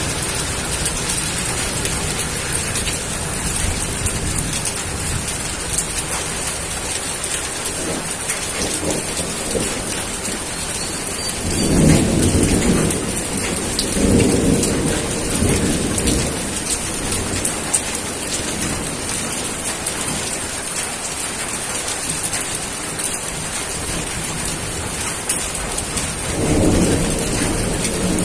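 Steady heavy rain with low rolls of thunder swelling about twelve seconds in, again a few seconds later, and near the end.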